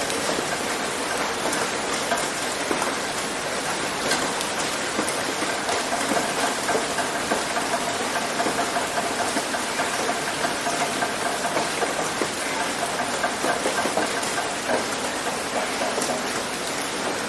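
Heavy rain hitting a roof: a dense, steady patter of drops. Through the middle, a faint steady hum sits under it.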